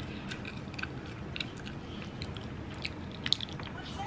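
Close-up chewing of spicy instant noodles, with short wet mouth clicks scattered at an irregular pace and one sharper click near the end.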